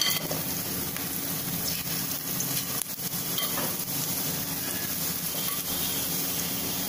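Gram-flour pakora fritters sizzling as they deep-fry in hot oil, a steady bubbling hiss, over a steady low hum.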